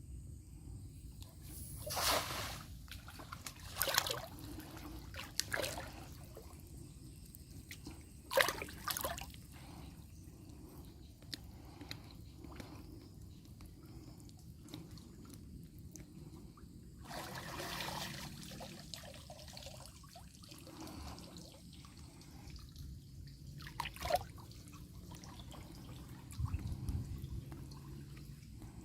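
Water splashing and trickling in irregular bursts, with the loudest splashes about 2, 4 and 8.5 seconds in, a longer one just past halfway and another near the end, over a steady low rumble.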